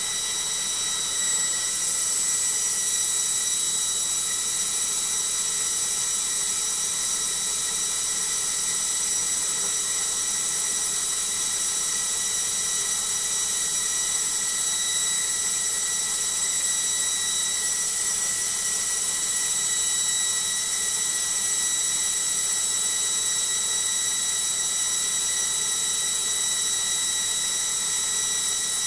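Logik washing machine in its final spin at high speed: a steady, high-pitched whine from the motor and drum over a rushing hum, holding an even speed.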